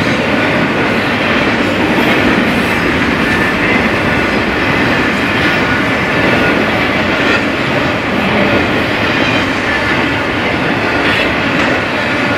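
Intermodal freight train cars rolling past close by: a steady, loud rumble and rattle of steel wheels on the rail from double-stack container cars and trailer flatcars, with a few faint clicks.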